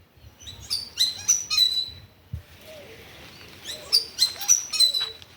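Small birds chirping: two quick runs of short, sharp, high chirps, the first about a second in and the second about four seconds in.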